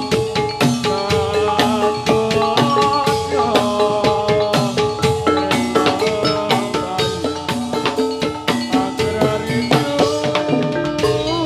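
Javanese gamelan playing jathilan dance music: metal-keyed mallet instruments ring a steady melody over fast, dense hand-drumming.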